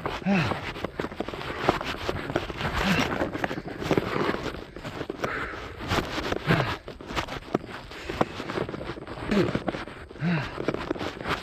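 Footsteps of someone running on a mountain trail, with short, low, falling breaths or vocal exhalations from the runner every few seconds.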